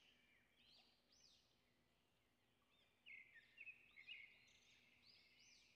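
Faint forest ambience of small birds chirping: short, high chirps that rise and fall in pitch, sparse at first and a little louder and busier from about three seconds in.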